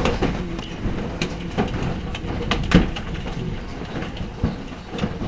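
Large hail coming down: irregular sharp knocks of hailstones hitting, over a steady hiss of falling hail and rain.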